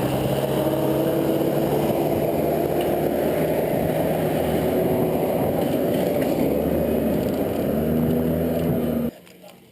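A motor vehicle engine running steadily over a low rumble, its pitch shifting a little. It cuts off abruptly about nine seconds in.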